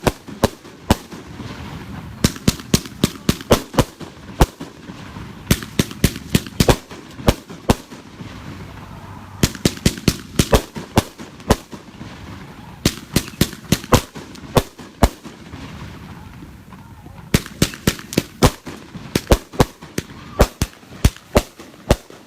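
Consumer firework cake, the Megabanger Trail of Tears brocade-to-falling-leaves cake, firing: sharp bangs in quick runs of several a second, with a faint crackle and hiss in the short pauses between volleys.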